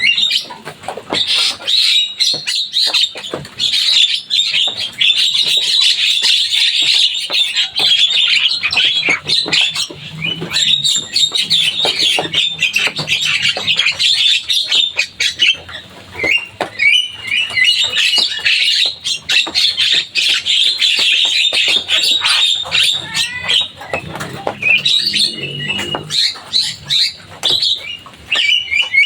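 Javan myna singing a long, busy run of rapid chattering and squawking calls, with two brief lulls.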